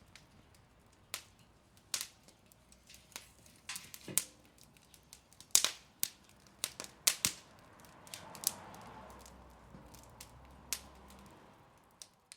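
Wood fire crackling, with irregular sharp pops and snaps at uneven intervals and a soft rush of flame between about eight and eleven seconds in.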